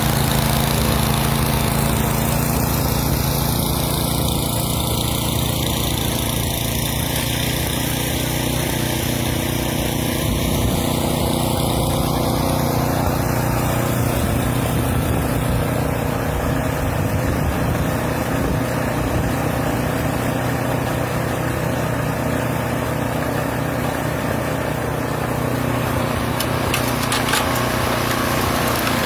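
Small gasoline engine of a snowblower running steadily at a constant speed.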